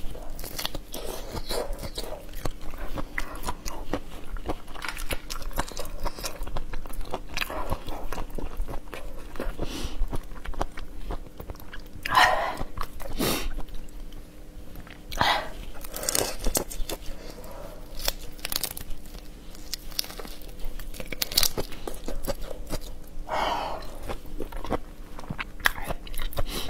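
Close-miked chewing and crunching of raw soy-marinated shrimp: steady wet crackling with a few louder bites.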